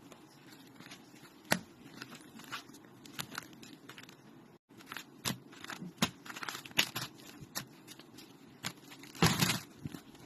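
A cat eating, with irregular crunches and tearing sounds as it chews at its food, and a louder burst of crunching about nine seconds in.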